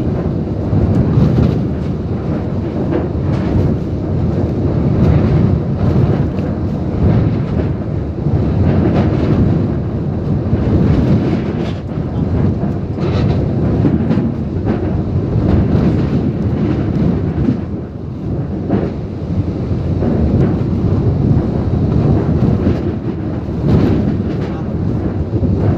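Typhoon wind and heavy rain battering a truck, heard from inside the cab: a loud, deep, continuous rush that swells and eases with the gusts, with scattered knocks and spatters.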